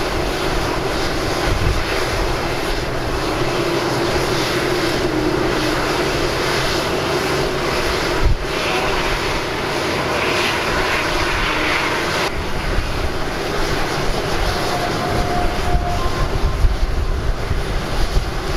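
Steady jet aircraft engine noise from an Airbus A330-300 during pushback, a continuous whooshing drone with faint steady tones coming and going.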